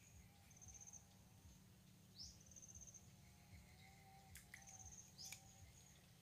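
Faint bird calls: twice, a quick rising note runs into a fast high trill, with shorter high notes between, over a steady low rumble.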